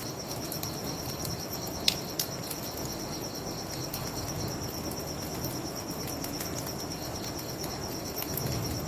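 Crickets chirping in a steady pulsing trill over a low steady rush, with a few sharp pops from a crackling wood fire, the loudest about two seconds in.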